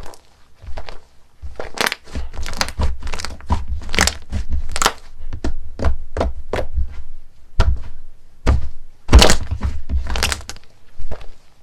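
Crunchy slime being pressed and poked by hand: an irregular run of crackles and pops over dull thuds, loudest about nine seconds in.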